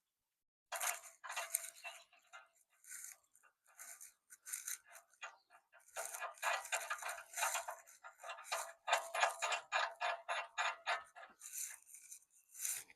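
Runs of quick, light metallic clicks and rattles from hand tools and bolt hardware as the last bolt of a steel bumper is fitted, busiest in the second half.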